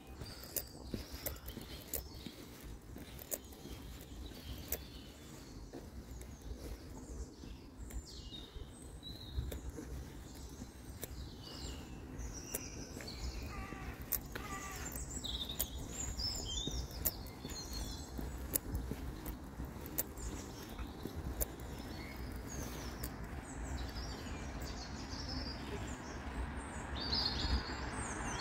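Several songbirds chirping and singing over a steady low rumble. In the last few seconds a vehicle's rushing noise swells louder.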